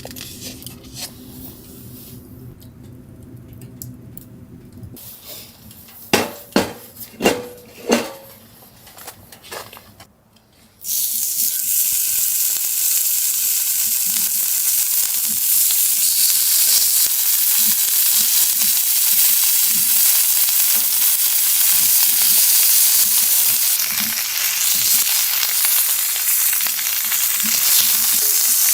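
Four sharp knocks, then food sizzling and frying in a hot pan. The sizzle starts suddenly a little before the halfway point and stays loud and steady.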